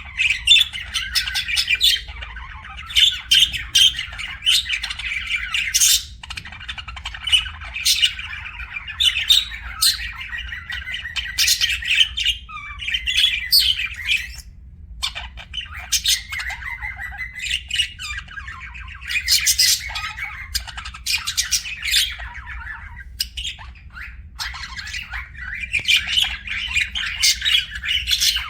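Budgerigars chattering and warbling without a break, with frequent short, sharp squawks standing out from the chatter.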